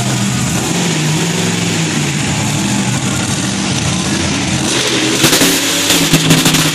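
Monster truck engine running loud with some revving. About five seconds in comes a stretch of rapid sharp crackling.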